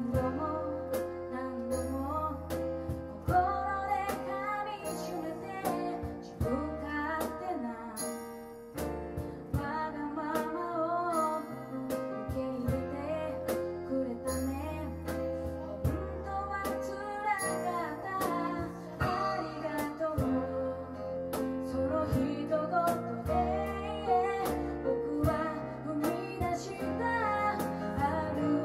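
Acoustic live band playing a pop song: a woman singing over keyboard, acoustic guitar and hand percussion keeping a steady beat.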